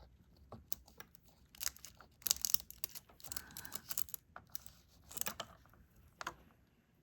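Diamond painting work: irregular light clicks and crinkly plastic rustling as resin drills are picked up with an applicator pen and pressed onto the canvas, in small clusters.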